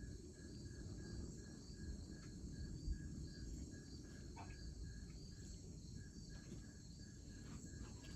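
Crickets chirping steadily and faintly, about three chirps a second, with a low rumbling haze underneath.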